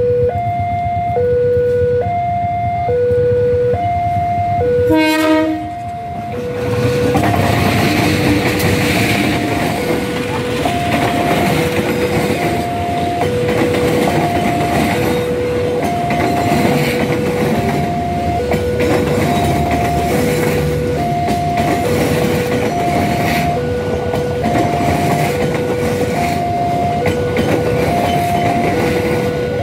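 Level-crossing alarm sounding a two-note warning, a low and a higher note alternating steadily, each under a second long. About five seconds in, a train horn gives a short blast. Then the KA Dharmawangsa passenger train passes the crossing with continuous running and rail noise, while the alarm keeps sounding.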